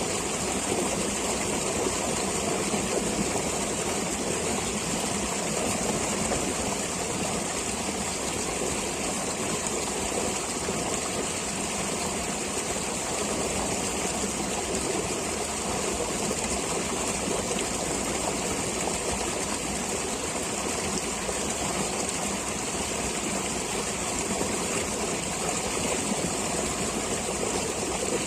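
Flowing stream water rushing steadily and unbroken, with no distinct splashes or changes.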